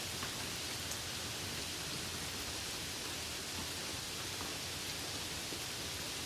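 Light rain falling steadily, an even hiss with a few faint individual drop ticks.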